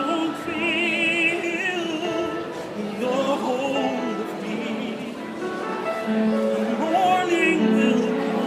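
A man singing a cappella in an operatic style, holding long notes with vibrato.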